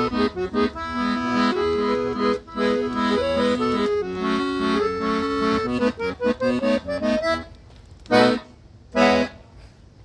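Forró accordion playing the instrumental ending of the song: a melody over a pulsing chordal accompaniment that stops about three quarters of the way in. Two short closing chords follow, about a second apart.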